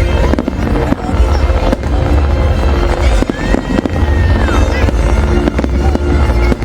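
Large fireworks display: a dense, continuous barrage of shell bursts banging and crackling over a deep rumble.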